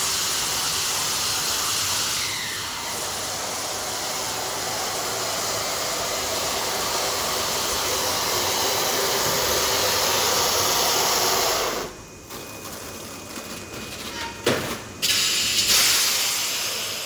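Adhesive tape production machinery running: a loud, steady hissing noise that drops away suddenly about twelve seconds in. Quieter, uneven machine noise follows, with a couple of short, sharp bursts near the end.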